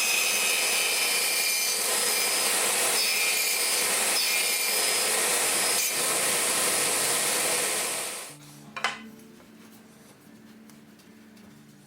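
Wood being abraded by a tool in a steady, hissing run with a faint whine, stopping abruptly about eight seconds in; a single knock follows, then soft background music.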